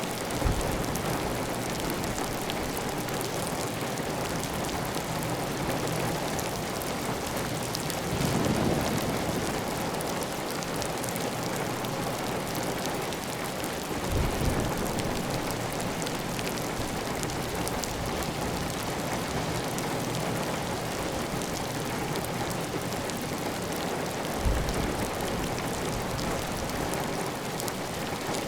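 Steady heavy rain on a clay tile roof, with water running off the roof edge in a continuous even hiss. A few brief low thumps or swells come through it, the longest about eight seconds in.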